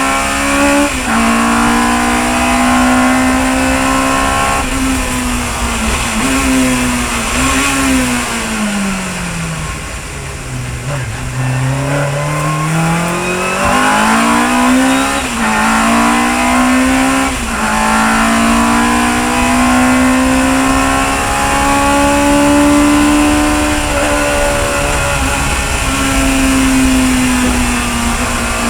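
Chevron B19 sports racing car's engine running hard at high revs. About eight seconds in the revs drop steeply as the car slows with downshifts, then climb back up through a quick run of upshifts and hold high again.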